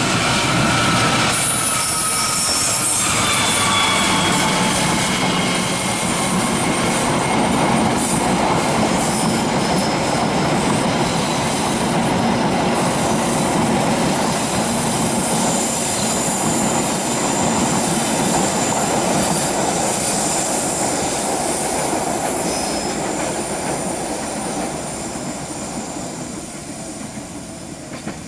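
Passenger train passing close by: steel wheels running over the rails with clacking, and a few high, falling wheel squeals in the first few seconds. The noise fades away near the end.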